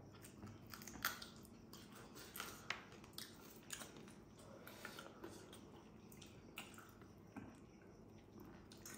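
Faint chewing and mouth smacks of people eating barbecued chicken by hand, with soft irregular clicks every second or so.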